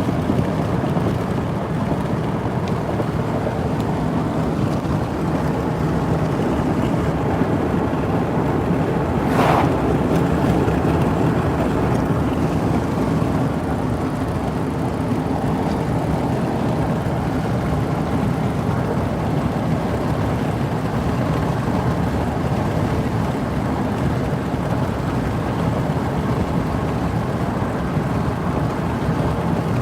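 Steady road and engine noise of a car being driven, heard from inside the cabin, with a brief hiss about nine seconds in.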